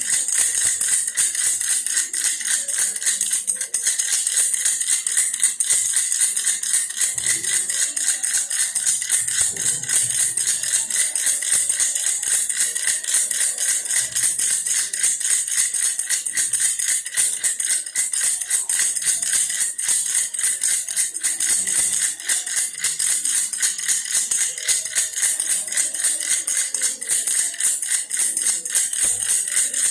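Baby's toy bear rattle shaken steadily: a fast, continuous rattling with no pauses.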